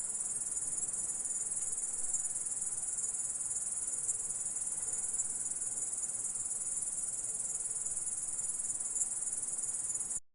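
Grasshopper stridulating: a continuous high-pitched insect buzz at an even level, cutting off suddenly near the end.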